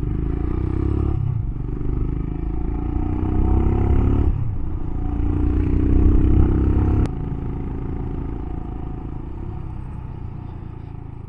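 Royal Enfield Himalayan single-cylinder motorcycle engine pulling away, its pitch rising through three pulls with gear changes about one and four seconds in. About seven seconds in the throttle closes sharply, and the bike coasts with the engine note dying away.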